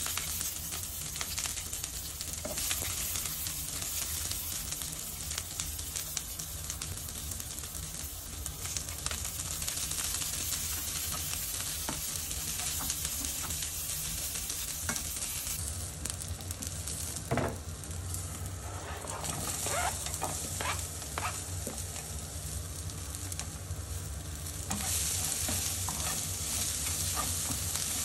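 Food sizzling and frying in a pan: a dense, steady crackle over a low hum, with a few sharper knocks or scrapes about two-thirds of the way through. The sizzle grows a little louder near the end.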